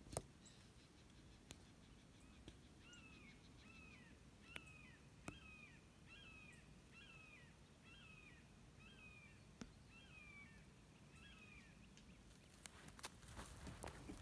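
A bird calling faintly from the brush: a dozen or so short down-slurred notes, about one every two-thirds of a second, for about eight seconds. A few light clicks, and near the end rustling footsteps in dry grass.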